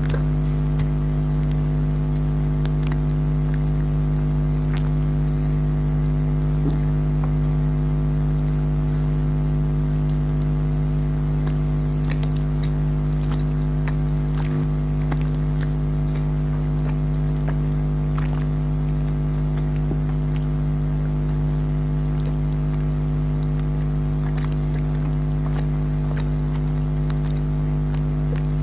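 A loud, steady machine hum throughout, with scattered short clicks and smacks of someone chewing jelly candies.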